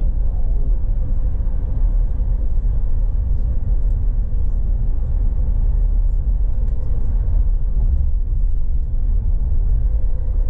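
Cabin noise of a bus driving along: a steady, deep rumble of motor and road noise with no breaks.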